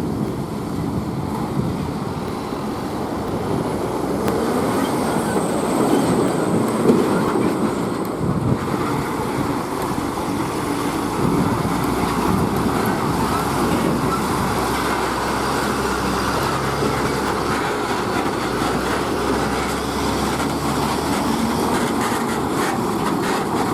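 Heavy trucks driving past on a highway: a steady rumble of diesel engines and tyre noise.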